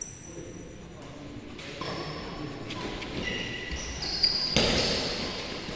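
Badminton shoes squeaking sharply on an indoor hall court floor during play, with racket-on-shuttlecock hits; the loudest hit comes about four seconds in, followed by a short burst of noise.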